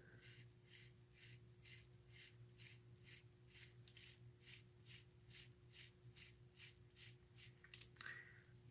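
Faint, regular rubbing ticks about three times a second from the freshly greased gears of a Marx 666 toy locomotive turning over, working the axle grease through the gear train, over a steady low hum.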